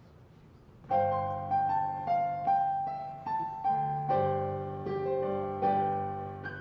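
Piano intro to a Christmas choir song: chords and a melody played with a regular beat, starting about a second in.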